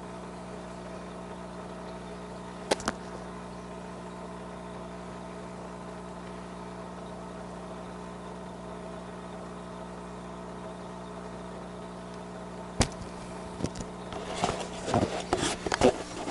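Steady electric motor hum with a low buzz. A sharp click comes about three seconds in and another about thirteen seconds in, then a run of knocks and rustles from handling near the end as a bait is changed.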